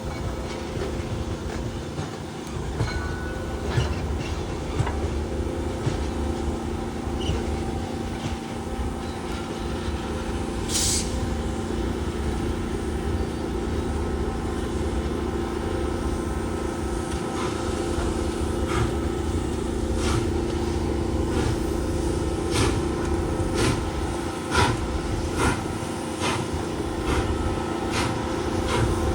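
Train cars rolling past with a steady low rumble and hum, and irregular clicks and knocks from the wheels. A brief high squeal comes about eleven seconds in.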